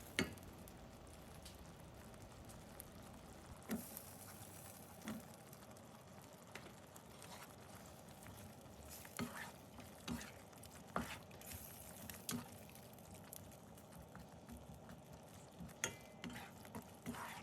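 A utensil stirring curry in a pan, with scattered light clacks against the pan over a faint steady sizzle of the simmering coconut-milk curry.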